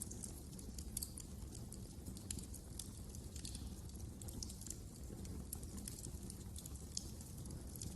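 Wood fire burning in a fireplace: a steady low rumble of the flames with frequent small crackles and pops of burning logs.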